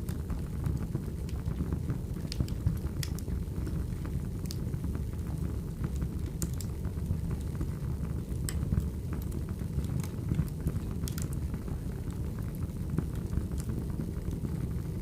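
Burning firewood: a steady low rumble of flames with scattered sharp crackles and pops.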